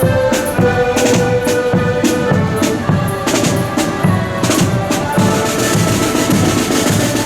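Marching accordion band playing a tune in the open: piano accordions hold the melody in sustained chords, a bass drum beats about twice a second, and snare drums play crisp strokes between the beats.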